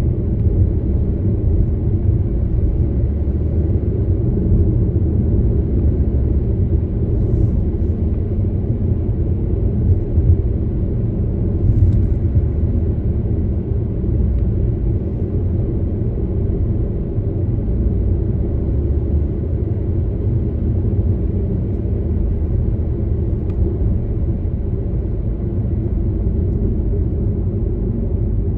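Car on the move: steady low rumble of road and engine noise, with a couple of faint knocks, about seven and twelve seconds in.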